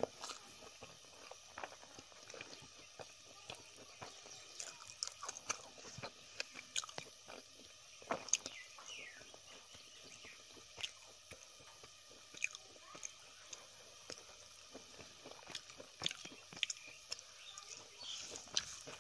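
A person chewing mouthfuls of rice and vegetables eaten by hand, with irregular wet mouth clicks and smacks.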